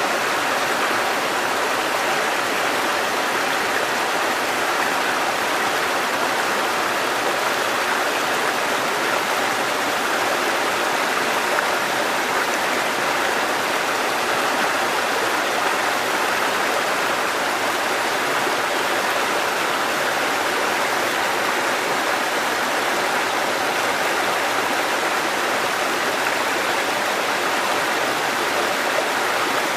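Water cascading over rocks in a mountain stream, a steady rushing noise.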